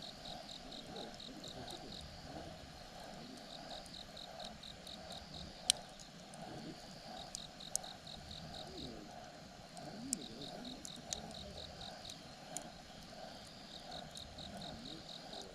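Wood fire crackling, with a handful of sharp, scattered pops, the loudest about five and a half seconds in, over a background of insects chirping in rapid pulsed runs of a second or two.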